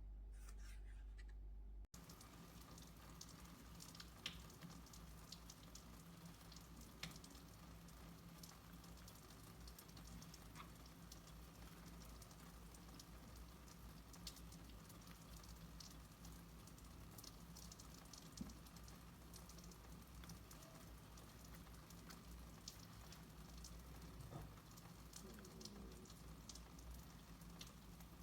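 Near silence: faint room tone with a low steady hum and scattered small clicks and ticks.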